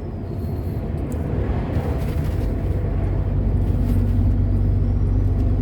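Truck engine and road noise heard from inside the cab while driving on the highway: a steady low drone.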